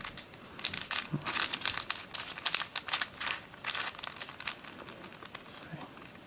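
Plastic layers of a Witeden 3x3x9 cuboid puzzle turned quickly by hand: a rapid run of light clicks and rattles that thins out after about four seconds. The puzzle turns smoothly, without catching.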